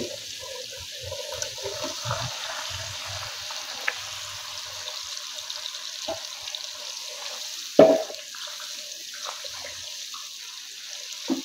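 Wet onion-tomato masala sizzling steadily in oil in a kadai as puréed saag greens are scraped in from a steel bowl and stirred with a wooden spatula. Utensil knocks come here and there, the sharpest about eight seconds in.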